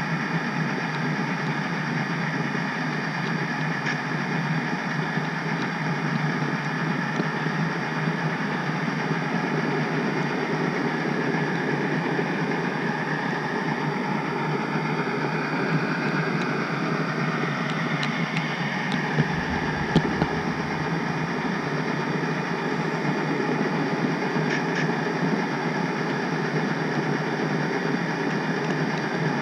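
HO scale model train running on the layout: a steady mechanical hum with a few faint clicks and one short louder knock about twenty seconds in.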